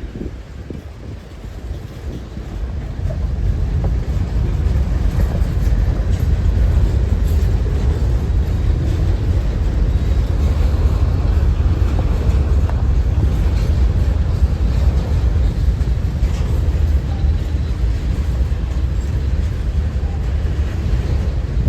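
Strong wind buffeting the microphone: a loud low rumble that dips briefly, builds over the first few seconds and then holds steady.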